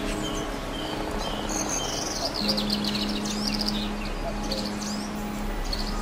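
Small songbirds singing, with many quick high chirps and twittering phrases overlapping, over a faint steady low hum.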